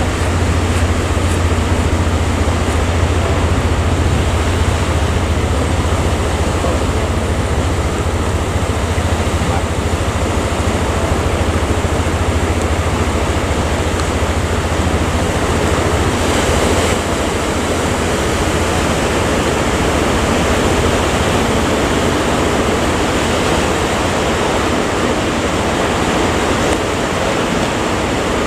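Steady noise of sea waves and wind, with a strong low rumble underneath.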